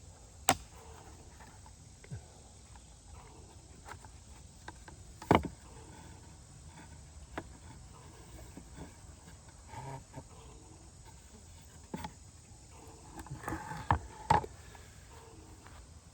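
Handling sounds of workshop assembly: scattered sharp clicks and knocks of small birch plywood panels, rare-earth magnets and screws being set down and fitted. The loudest knocks come about five seconds in and two close together near the end.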